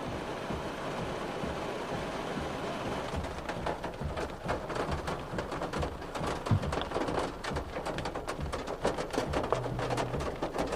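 Rain falling as a steady hiss, with a dense, irregular patter of drops striking a nearby surface from about three seconds in.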